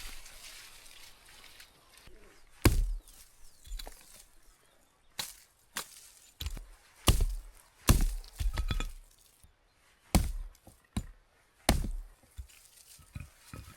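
Wood being chopped by hand: a dozen or so sharp, irregularly spaced strikes, some with a short cracking sound as the wood gives.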